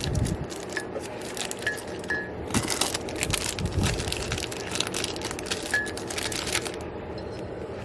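Dense crinkling and crackling of packaging being handled, loudest from a few seconds in until near the end, with a few brief faint squeaks.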